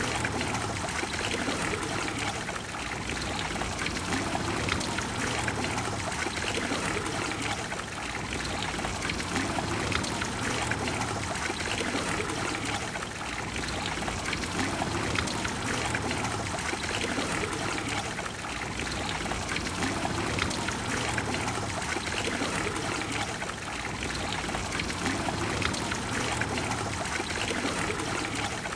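Water of the Trevi Fountain flowing steadily, an even splashing hiss that dips slightly in level every few seconds.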